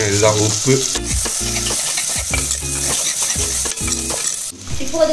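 Chopped onions and spices sizzling in hot oil in a clay pot while a steel ladle stirs them, with short scrapes and clinks against the pot. The sizzling and stirring cut off suddenly near the end.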